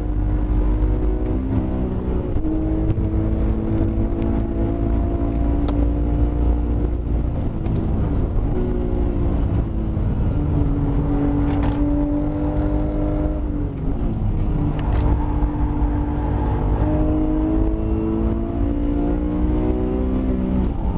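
Porsche 911 GT3 RS's flat-six engine heard from inside the cabin at racing speed, its note rising and falling with the throttle through the corners. There are sudden jumps in pitch at gear changes several times, over a steady low rumble of road and wind noise.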